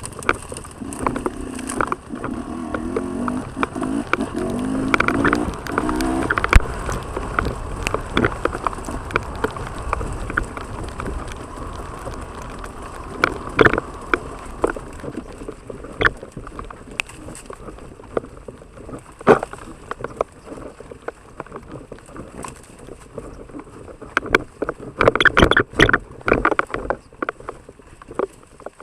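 Off-road trail motorcycle engine running with uneven, wavering revs for the first several seconds, then dropping away. Scattered sharp knocks and clatter continue over a wet, noisy background, with a dense run of knocks near the end.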